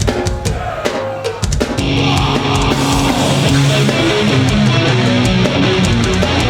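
Live metal band: the drum kit plays alone with kick, snare and cymbal hits, then the distorted electric guitars and bass come in about two seconds in and the full band plays on, louder.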